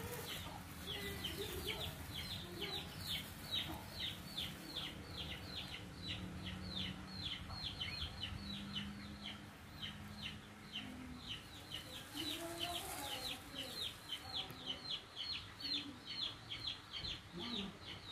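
A bird peeping steadily and without a break: short, high notes that slur downward, about four or five a second.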